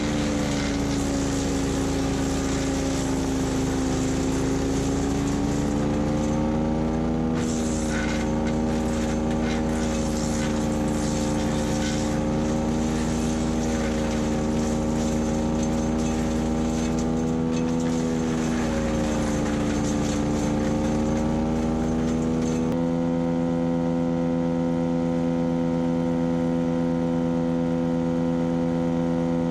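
Split-Fire 4090 wood chipper, driven by its Honda GXV390 single-cylinder engine, chipping dry, brittle deadwood. The engine sags in pitch under load as branches feed in, twice, with crackling and snapping from the wood being cut. About 23 s in it changes abruptly to a steady, even engine note with no chipping.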